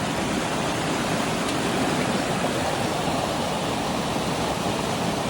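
Mountain stream water rushing steadily over rocks, an even unbroken rush.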